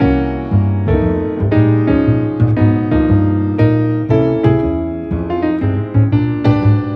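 Background music: a piano melody played in steady, evenly paced notes.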